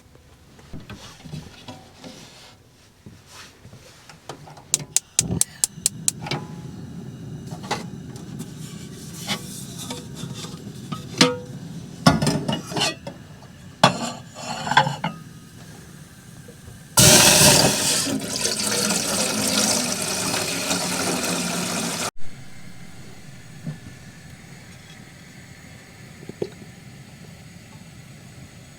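Dishes and utensils clink and knock repeatedly, then loud rushing water or liquid pours for about five seconds and cuts off abruptly.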